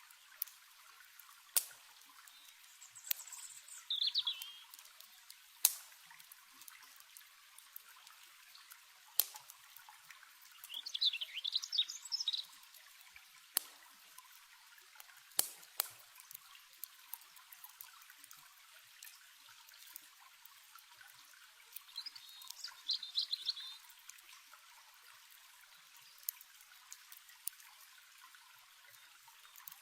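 Steady trickle of water with scattered sharp pops, as of a crackling campfire, and a songbird singing three short, fast-trilled, high phrases, near the start, in the middle and about two-thirds through.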